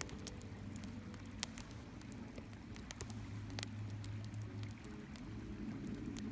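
Wood fire crackling, with sharp irregular pops a few times a second, over the even rush of a small stream.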